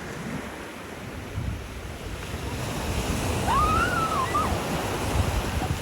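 Ocean surf washing in, with wind buffeting the microphone, growing louder over the second half. A brief faint call rises and falls in pitch about three and a half seconds in.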